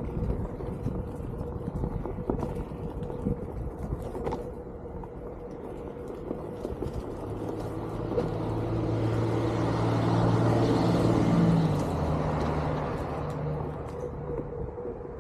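A motor vehicle passes, its engine hum building to a peak about eleven seconds in and then fading. Underneath are wind rumble on the microphone and a steady high whine.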